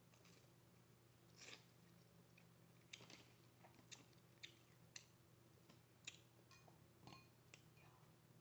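Close-miked eating sounds: chewing and biting, with about a dozen scattered sharp clicks and crunches over a faint steady low hum.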